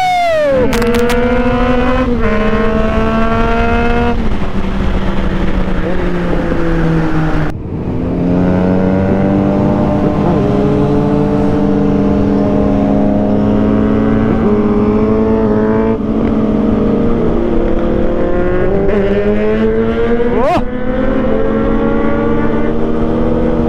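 Triumph Trident 660's three-cylinder engine pulling hard at high revs, heard from on the bike over a steady rush of wind. The engine note holds and climbs between gear changes, with one clear shift about seven and a half seconds in where the sound briefly drops.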